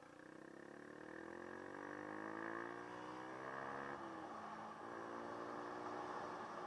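Dirt bike engine accelerating: its pitch climbs for about four seconds, drops at a gear change, then pulls on steadily.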